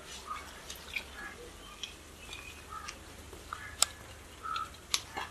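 Quiet outdoor ambience with scattered short bird calls and a few light ticks, two sharp clicks standing out about four and five seconds in.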